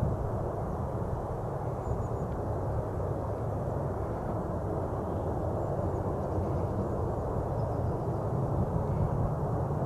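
Jet airliner engines rumbling in the distance, a steady low roar that slowly grows louder.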